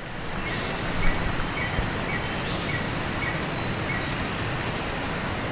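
Jungle insects calling, with a fast, even pulsing high up and short repeated chirps, over a steady rushing noise. A few falling whistled notes come in the middle.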